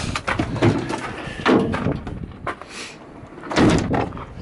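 Work van doors being opened and handled: a string of clunks and knocks, the loudest shortly before the end.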